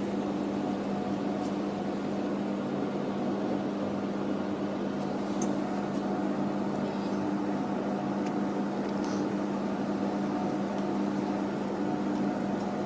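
Steady hum inside a train or bus carriage, from its running machinery and air conditioning, with a constant low tone and a weaker tone that comes and goes. A few faint clicks are heard partway through.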